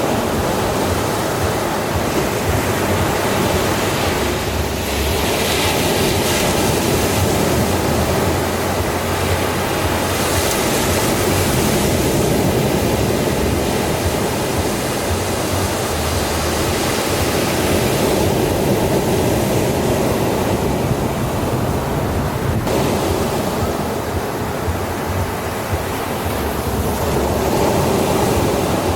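Ocean waves breaking and washing on the shore in a steady rush, with a few gentle swells.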